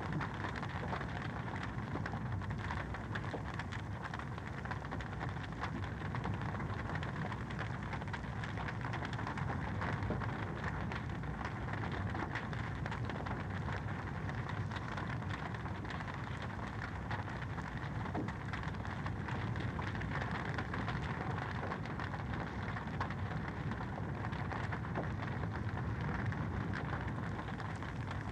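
Wood fire crackling steadily in a fireplace, a dense stream of small pops and snaps over a soft rushing hiss.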